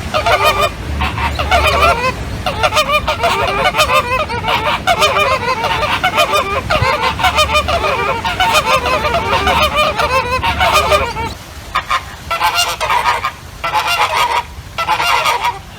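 A flock of flamingos honking, many calls overlapping; after about eleven seconds the calling breaks into short separate bouts.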